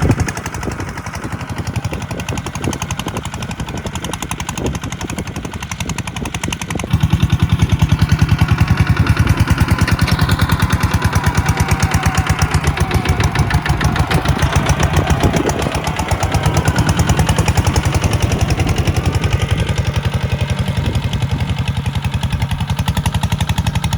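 Diesel tractor engine running steadily with a fast knocking beat. It gets louder about seven seconds in.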